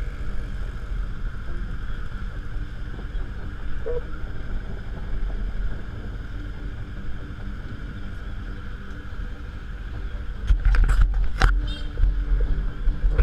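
Motorcycle engines idling at a standstill, a steady low rumble with street traffic behind it. About ten seconds in, gusts of wind start buffeting the microphone.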